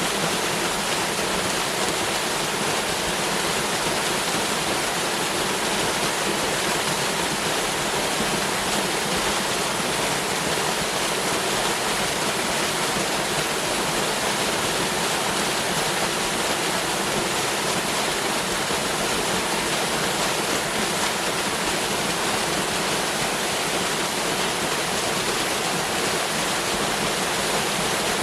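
Waterfall pouring steadily, an even rush of falling water that stays at one level throughout.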